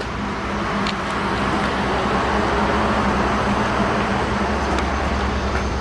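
Steady machinery drone: a constant low hum under an even rushing noise, growing slightly louder over the first couple of seconds.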